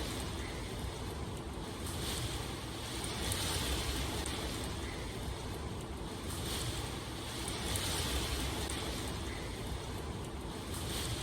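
Steady rain ambience: a continuous hiss of falling rain that swells and eases gently every few seconds.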